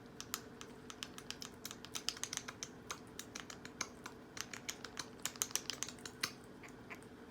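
A conure's beak clicking and tapping as it eats yogurt: a quick, irregular run of small sharp clicks, thickest in the middle of the stretch.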